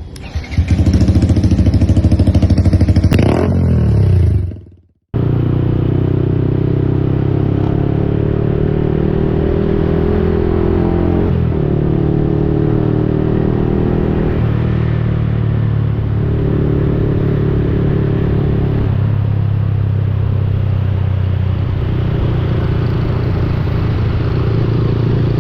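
Yamaha XSR 155's single-cylinder engine through an aftermarket replica Akrapovic exhaust. It revs loudly and the revs fall away, then the sound cuts off abruptly. It comes back running steadily under way, its pitch shifting a little every few seconds.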